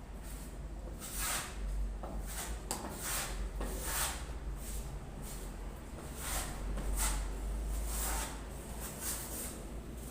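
Repeated scraping strokes of a putty knife or trowel working wall putty over a wall, each stroke a short swish, irregularly spaced about once or twice a second, over a low steady rumble.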